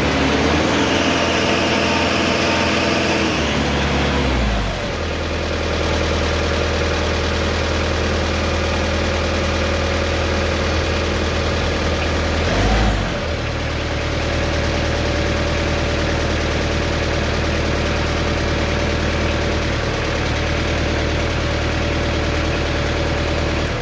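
McCormick X1.45 tractor engine running on a newly fitted throttle cable: revved up and let back down in the first few seconds, blipped once briefly about halfway through, and otherwise idling steadily. The idle sits a little high, at about 1100 RPM, and the sound cuts off at the end.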